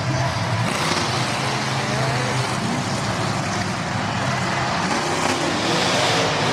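Truck engine running loudly and steadily, its pitch rising and falling a little near the end, under a dense rushing noise.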